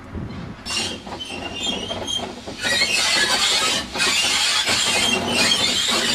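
A train running close by, with a harsh high hiss and rumble, growing much louder about two and a half seconds in.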